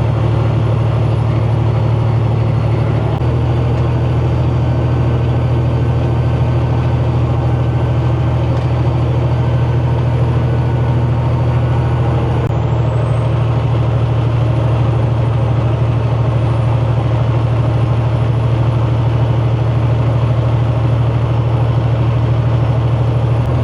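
Semi-truck diesel engine pulling up a long grade through 8-inch stacks: a loud, steady low drone with a thin high turbo whistle above it. The engine note shifts about three seconds in and again about twelve seconds in; at the second shift the turbo whistle dips and spools back up.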